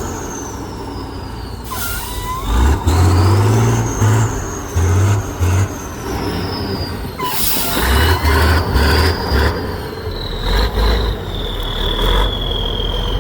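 Heavy trial truck's engine revving in short, uneven bursts under a high whine that rises and falls. Two sharp air hisses, like air-brake release, come about two seconds in and again about seven seconds in.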